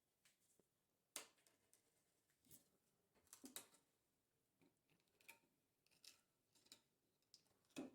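Near silence broken by about eight faint, short clicks and scrapes at irregular intervals, the small handling sounds of hand tools working wood.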